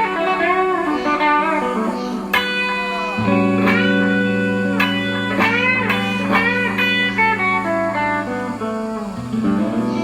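Electric guitar playing a bluesy melodic line with bent notes over sustained chords, joined by a held low bass part about three seconds in.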